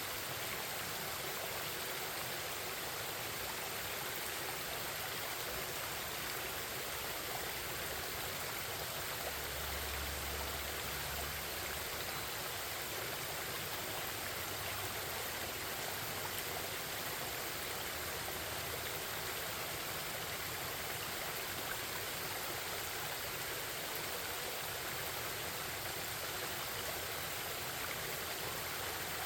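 Forest stream babbling and rushing steadily, with a brief low rumble about ten seconds in.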